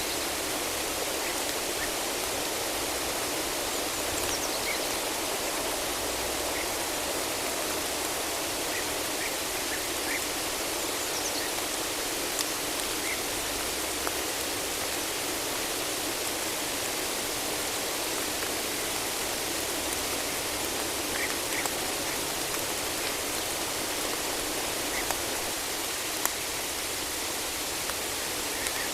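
Steady rain falling in a forest: an even hiss with scattered faint ticks of drops.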